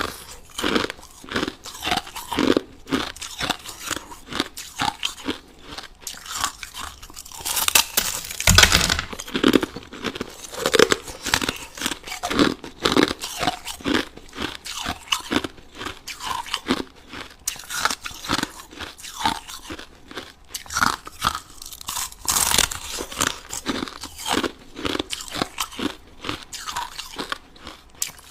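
A person biting and chewing crushed ice close to the microphone: rapid crunches, several a second, with louder bites about eight seconds in and again near 22 seconds.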